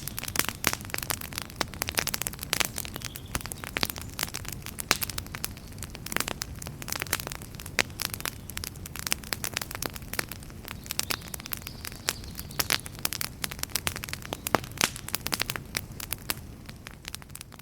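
Campfire crackling, with a dense run of sharp pops and snaps over a steady low rumble of burning wood.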